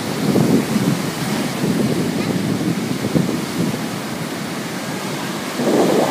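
Wind buffeting the microphone in gusts: a low rushing rumble that swells and eases every second or so, with a stronger gust near the end.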